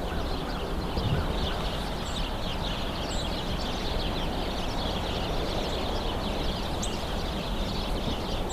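A large hidden flock of small birds calling all at once, a dense, steady chatter of many overlapping chirps, with a few thin high notes on top.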